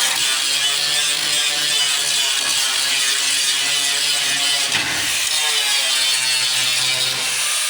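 A handheld power tool working on car body metal, running steadily with a brief dip about five seconds in.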